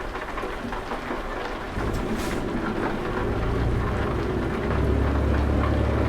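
Steady rain, with a deep low rumble that builds about two seconds in and is loudest near the end.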